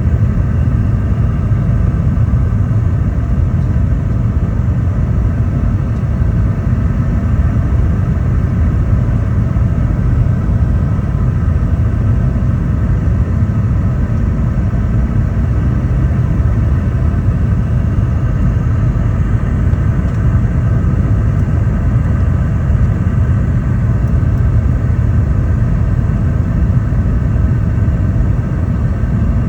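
Steady, loud cabin rumble inside a Boeing 717-200 airliner, with the even hum of its rear-mounted Rolls-Royce BR715 turbofan engines carried as faint steady tones above the rumble.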